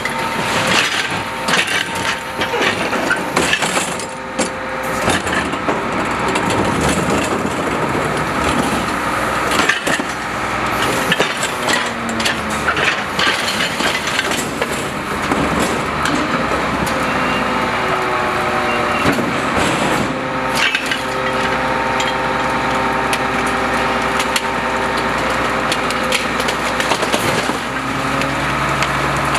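Garbage truck's rear compactor crushing refuse, with repeated cracking and splintering as the load breaks up, over a steady mechanical tone from the running truck.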